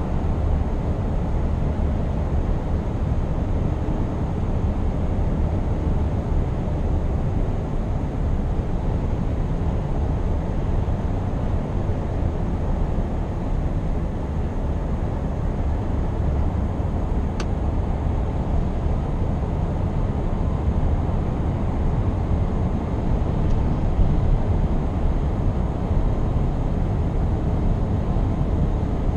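Scania R520 V8 truck driving at a steady speed: a low, even rumble of engine and road noise.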